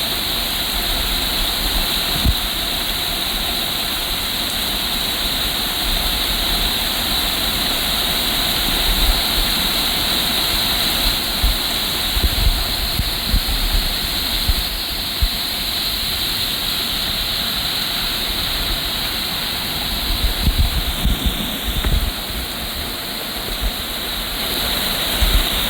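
Rainwater running down a steep asphalt road: a steady rushing hiss, with occasional low rumbles under it.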